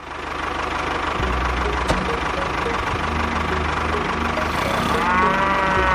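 A small engine running steadily, with a single click about two seconds in. A cow moos once near the end, falling in pitch.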